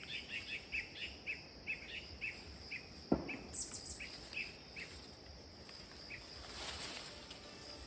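A bird calls a run of short chirps, about four a second at first, slowing down and stopping near the end, over a steady high insect drone. One sharp knock about three seconds in.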